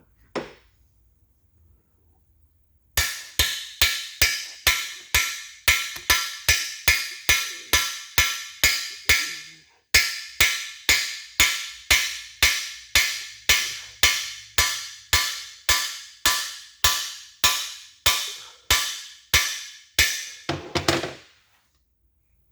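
Hammer blows on a cam bearing driver bar, driving a cam bearing into a 283 small-block Chevy block: about two to three steady, ringing metal strikes a second, with one short pause about halfway.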